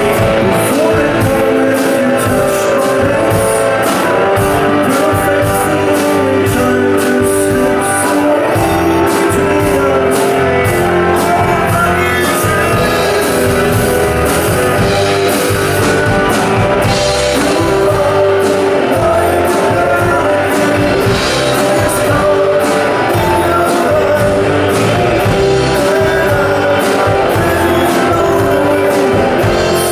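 Live rock band playing loudly: electric guitars and a drum kit, with a sung vocal.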